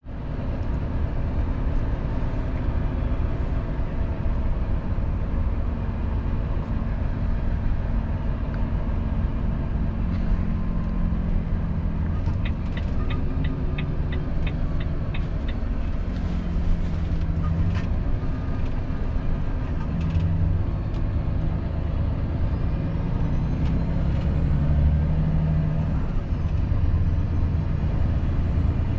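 2019 Volvo FH 500 truck's 13-litre straight-six diesel running on the move, heard from the cab, its low drone shifting in pitch as it pulls and changes gear. A run of about ten quick, even ticks comes a little before halfway.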